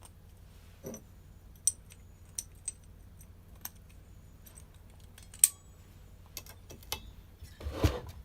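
Small metal clicks and clinks of a brush cutter's centrifugal clutch shoes and springs being handled and worked back into place, irregular and sharp, with one louder click about halfway. A short scraping rustle follows near the end.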